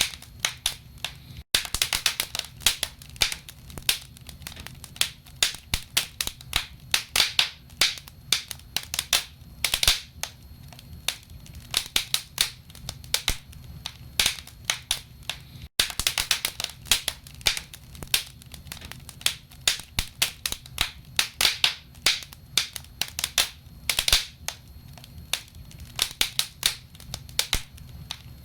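Wood fire crackling in a fireplace: burning logs give off many irregular sharp pops and snaps, some in quick clusters, over a steady low rumble.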